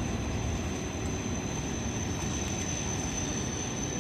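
Locomotive-hauled train of an EF81 electric locomotive pulling an ED75 rolling along the track after departure, a steady low rumble of wheels on rail.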